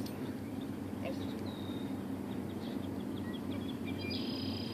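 Lakeshore ambience: a steady low background noise with birds calling over it, one held whistle, then a run of quick chirps and a longer whistle near the end.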